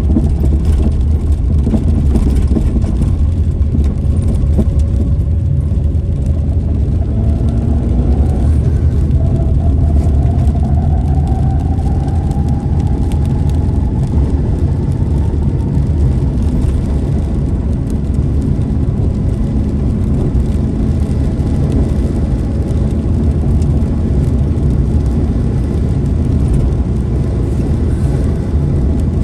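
Car driving: a steady engine and road rumble, with a faint whine that rises slowly in pitch over several seconds in the first half.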